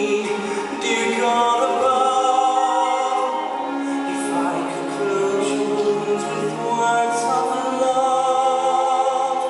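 Stage-musical ballad: singing in long, wavering held notes over orchestral accompaniment, recorded from the audience at a live concert.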